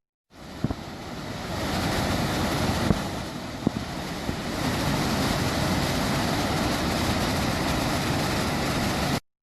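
Steady rushing of a waterfall's falling water, swelling over the first couple of seconds and then holding even, with a few sharp clicks about a second in and again around three and four seconds in.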